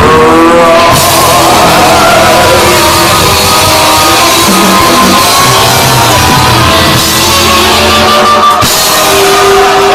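Live punk rock band playing loud: electric guitars and a drum kit, with a sharp break near the end followed by held, ringing tones.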